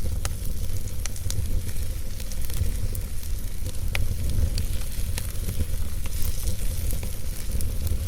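Campfire crackling: irregular sharp snaps and pops over a steady hiss, with a constant low wind rumble underneath.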